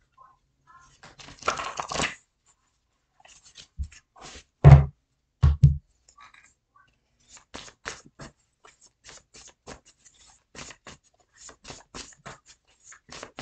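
Tarot cards being shuffled and handled: papery rustling and quick clicks of cards, with two soft thumps a little under a second apart about halfway through.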